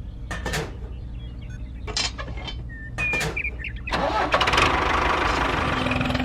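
An engine starts about four seconds in and then keeps running steadily over a low hum, after a few short clicks and brief high chirps.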